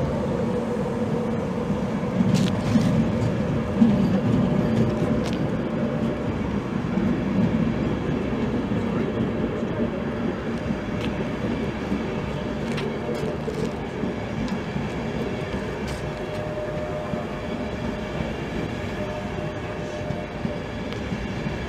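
Hull Trains Class 180 Adelante diesel multiple unit running past on the main line: a steady rumble of engines and wheels with a low engine drone, slowly fading, with a few clicks.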